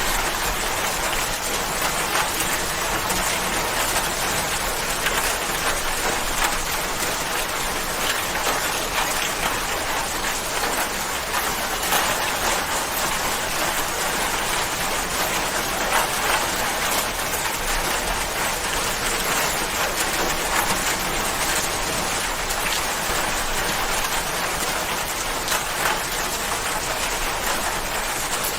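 Steady rain falling on a surface: a dense, even hiss of many drops, with small drop ticks scattered through it.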